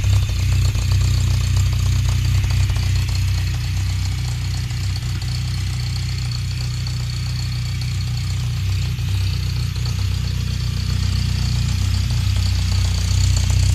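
Skoda four-cylinder engine, bored out to 1500 cc and running on a Felicia MPi injection system, running steadily on its first start. It gets a little louder near the end.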